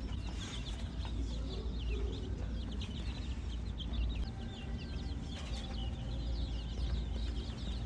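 A crowd of chicks peeping continuously, many short high falling chirps overlapping, over a steady low hum.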